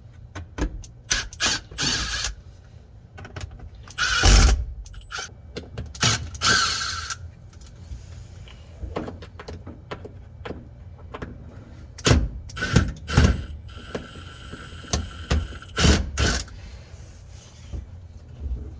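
Hand tools and metal parts clicking, knocking and rattling while the shifter boots are worked loose from a 1974 Ford F100's cab floor. Two short stretches of a steady whine come in, one about six seconds in and a longer one near the end.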